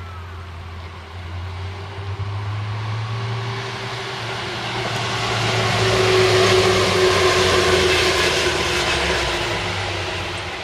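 Electric commuter train approaching and passing, its running noise and motor hum swelling to a peak about two-thirds of the way through, then fading.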